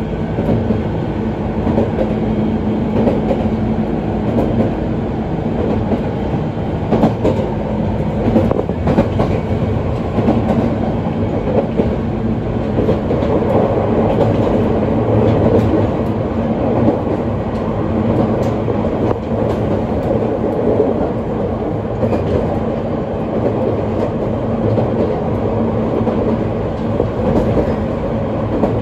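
ET127 series electric multiple unit running along the line, heard from inside the car: a steady rolling rumble with a constant hum and occasional clicks of the wheels over rail joints.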